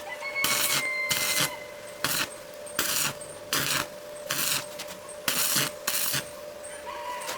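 Repeated short, rough scraping strokes, a little more than one a second, over a steady hum; the hum stops near the end.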